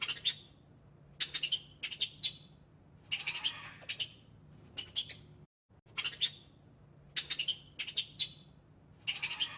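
A bird calling in short bursts of rapid high chirps, about one burst a second, over a faint low hum.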